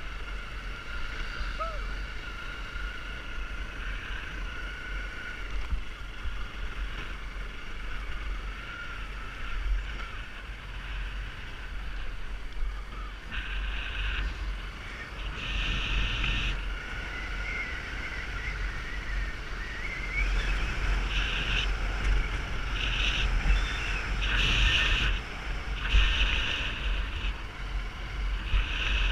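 Riding a motorbike through traffic, with wind buffeting the microphone in a constant low rumble. From about halfway through, short high steady tones come and go repeatedly over the road noise.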